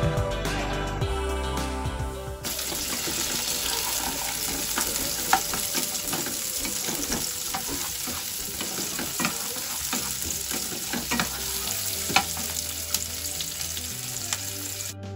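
Cubed onion and capsicum sizzling in hot oil in a nonstick frying pan, stirred with a wooden spatula that clicks and scrapes against the pan, with two sharper knocks. Background music plays for the first couple of seconds before the sizzling starts.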